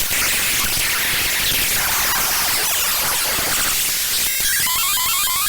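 Raw binary data of the ffmpeg program file played back as audio: harsh, dense static-like noise. About four seconds in, a click is followed by a repeating pattern of short chirping tones over the hiss.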